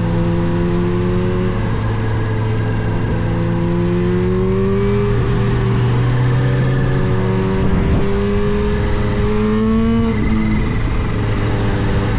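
Kawasaki Z H2's supercharged inline-four engine pulling under steady throttle while riding, its pitch climbing slowly and dropping at upshifts about five seconds in and again near ten seconds.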